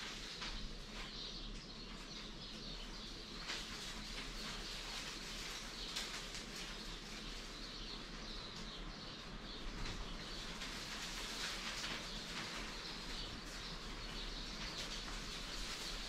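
Birds chirping steadily, with many short, overlapping calls.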